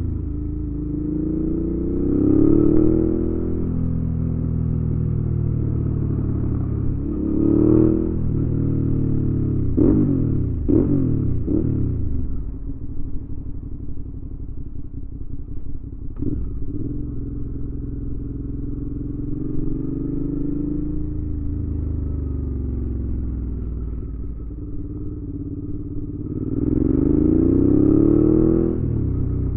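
2019 Suzuki V-Strom 650's 645 cc V-twin running through a Delkevic aftermarket exhaust while riding. The engine note rises and falls with the throttle: it pulls up about two seconds in and again around eight seconds, climbs quickly three times just after ten seconds, settles into steadier running, and pulls up once more near the end.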